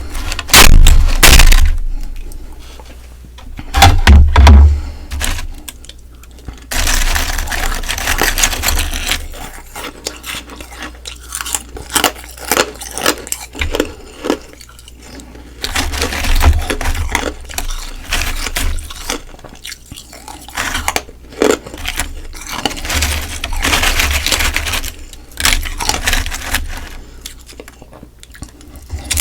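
Close-miked biting and chewing of frozen humidifier frost: a couple of loud crunching bites in the first few seconds, then a long run of crackly, crunchy chewing.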